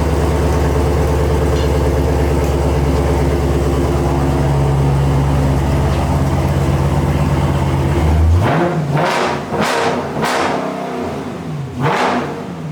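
Dodge Scat Pack's 6.4-litre HEMI V8 running loud and steady through a freshly fitted loud aftermarket exhaust, then revved several times in quick succession near the end, the pitch rising and falling with each blip.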